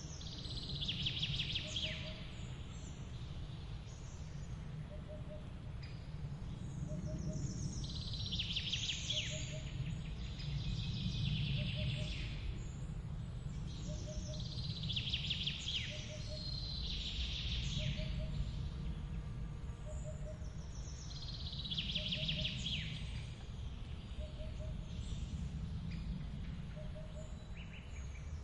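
Steady rush of a forest waterfall and running water, heaviest in the low range. Over it a songbird sings a quick, high phrase that comes back about every seven seconds, and a faint short low note repeats roughly every second and a half.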